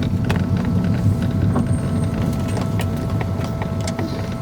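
Car driving slowly: a steady low rumble of engine and tyres, with scattered small clicks and knocks throughout, as from a rough road surface.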